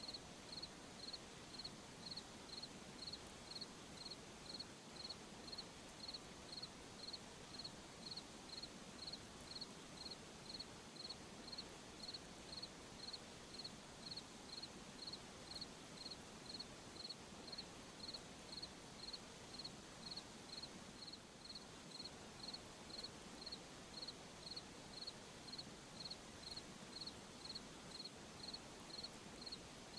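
A cricket chirping steadily and evenly, about one and a half chirps a second, over a faint continuous high insect hum.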